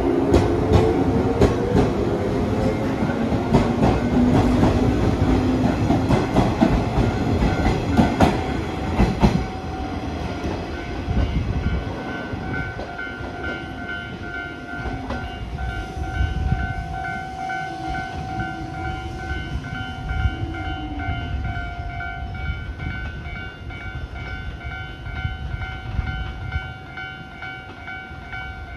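Electric train pulling out of a station: its motor whine rises in pitch over the first several seconds while the wheels click over rail joints. After that the sound fades away, leaving steady high tones.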